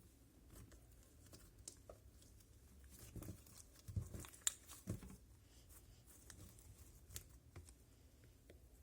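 Handmade slime being squeezed and stretched by hand, giving faint sticky crackles and small pops, with a few louder snaps about four to five seconds in.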